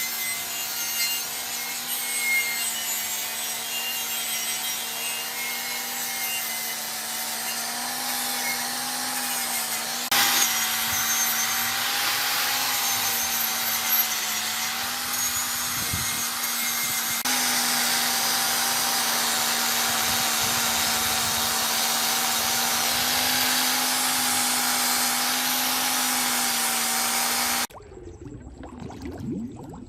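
An electric power tool running steadily with a rasping, grinding noise as it works against a surface, its hum wavering slightly in pitch. It stops abruptly near the end.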